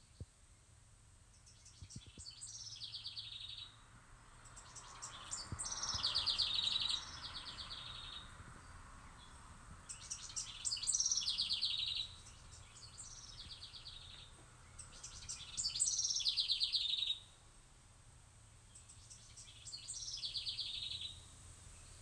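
A songbird singing the same short song about seven times with pauses of a few seconds between, each song a fast, high trill of notes falling in pitch.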